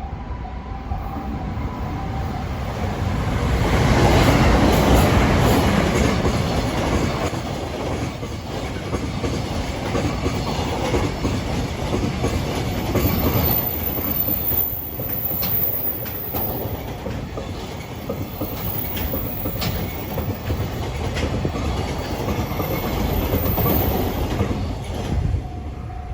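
Trains running over a level crossing: a freight train hauled by a JR Freight EF510 electric locomotive and a 521 series electric multiple unit, rumbling steadily, loudest about four to six seconds in. The freight wagons clatter over the rail joints with a run of sharp clicks in the second half.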